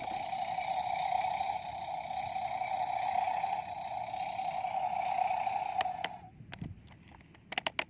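A toy vehicle's small electric motor whines steadily and stops about six seconds in. A few sharp plastic clicks follow near the end.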